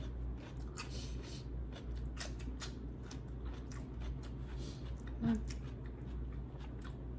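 Close-miked eating sounds: chewing and crunching with quick little clicks and crackles, over a steady low hum. A brief pitched sound stands out about five seconds in.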